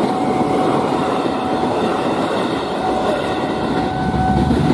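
KRL Commuter Line electric train passing over a level crossing at speed, a loud, steady rush of wheels running on the rails.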